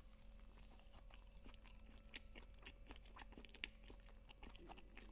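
A person chewing a mouthful of McDonald's crispy fried chicken sandwich, with faint, irregular small crunches.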